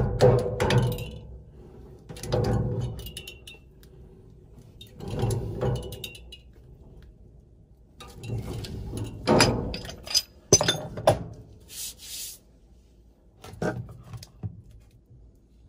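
Tools and metal furnace parts being handled: a series of irregular knocks, scrapes and clinks, with a short hiss about twelve seconds in.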